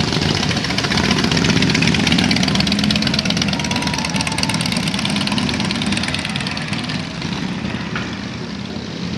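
Motorcycle engine running with a fast, even beat, growing gradually quieter over the last few seconds.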